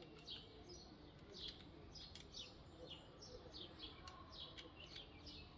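Faint bird chirping: short, high chirps that sweep downward, repeating about every half second, with a few faint clicks.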